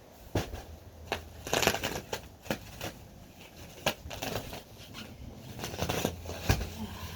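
Pine shavings being handled and scattered by hand: irregular crunching and rustling with sharp crackles at uneven intervals.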